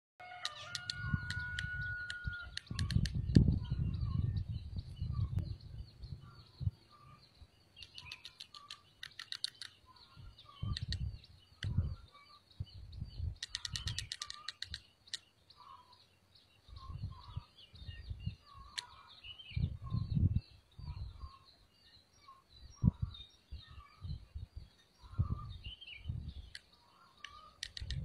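Birds chirping at a nest: short chirps repeat about once a second, mixed with low thumps and rustling and a few bursts of rapid clicking.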